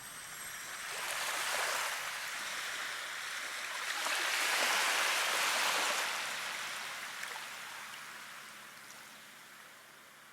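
Rushing water noise that swells and recedes: a smaller surge about a second in, then a louder one midway that slowly dies away.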